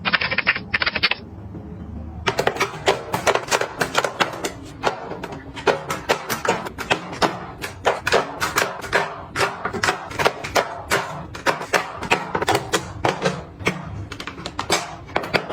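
Quick, irregular clicks and taps, several a second, of small hard items and containers being picked up and set down while they are arranged. A short, bright burst of sound fills the first second.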